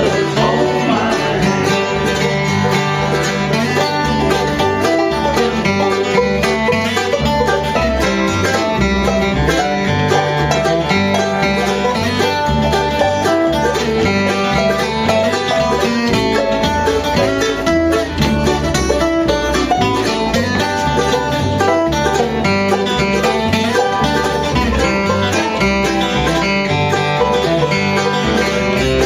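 Live bluegrass band playing an instrumental passage, banjo and guitar picking over a steady bass line.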